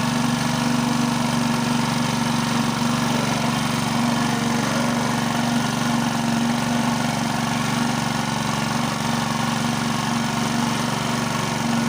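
Small engine of a water pump running steadily at a held, low throttle, drawing water up a newly drilled well.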